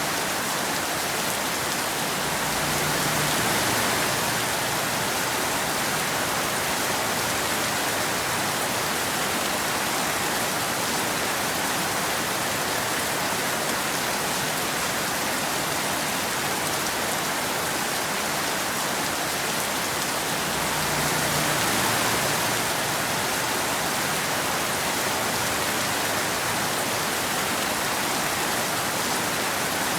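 Steady rain, an even hiss, swelling slightly twice: a few seconds in and again about two-thirds of the way through.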